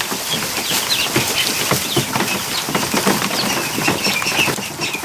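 A crowd of domestic ducklings peeping in short high chirps, over many quick taps and flaps from their feet and wings.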